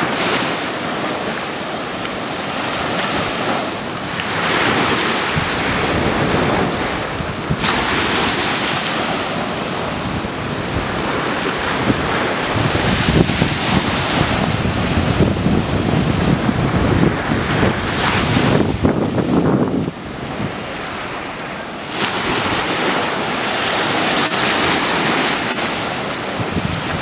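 Ocean waves and surf with wind buffeting the microphone: a loud, steady rushing noise that swells and eases in surges, dipping for a couple of seconds past the middle.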